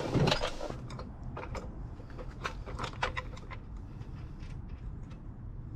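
Scattered light clicks, clinks and knocks of gear and tools being handled and moved about, with a louder cluster near the start.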